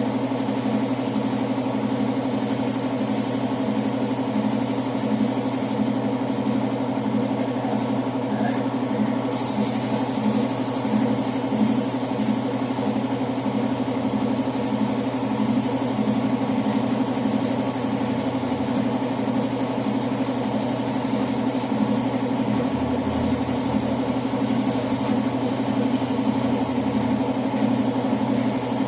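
A motor running steadily at an even pitch, with a fast regular pulse, like an engine idling.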